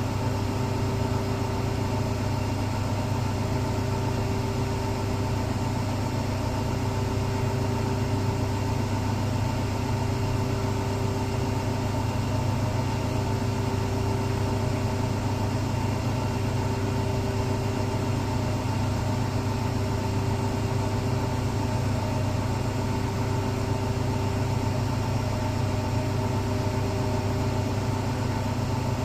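Electrolux Professional commercial laundry machine running with a steady, even hum, a low drone with a few constant tones above it.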